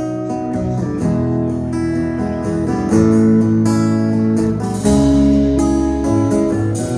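Live band playing the instrumental intro of a song, led by strummed acoustic guitar chords that change every second or so, with no singing.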